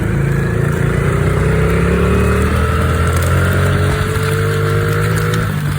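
Pit bike engine running under way, its pitch climbing slowly as it gathers speed for about five seconds, then falling away near the end.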